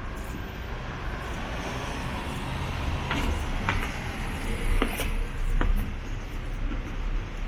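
Street traffic noise: a steady low rumble of passing road vehicles, with a few short sharp clicks or knocks around the middle.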